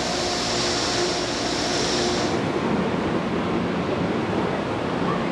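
Steady din of a station platform beside standing passenger trains: a continuous hiss and hum, with a high hiss that cuts off about two seconds in, leaving a lower hum.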